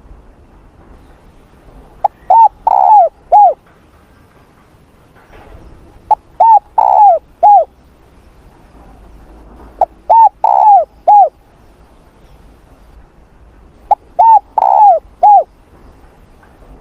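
Spotted dove cooing: four loud phrases about four seconds apart, each a quick run of short notes around one longer, rolled coo.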